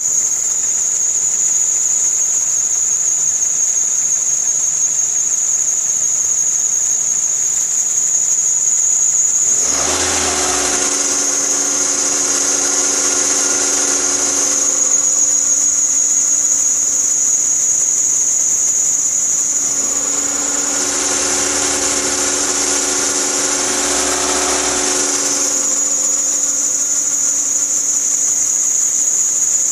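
Ford Tierra engine running with a steady, high-pitched squeal from its drive belt, the abnormal belt noise. Twice, for about five seconds each, a deeper engine hum comes in and the squeal turns into a broader, harsher noise.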